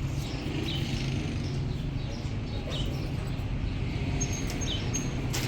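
Steady low rumble, like distant traffic, with a small bird chirping every second or two.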